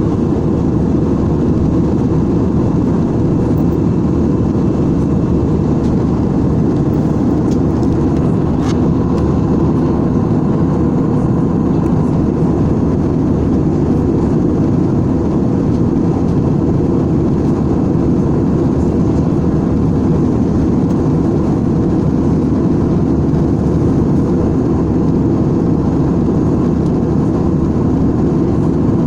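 Steady engine and airflow noise inside an airliner's passenger cabin in flight: a loud, even, low rumble that does not change.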